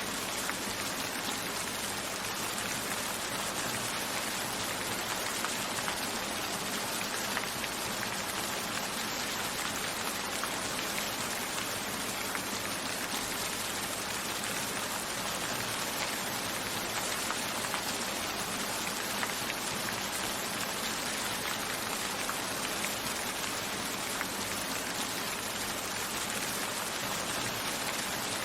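Steady rain: an even hiss of falling rain with scattered drop ticks, unchanging throughout.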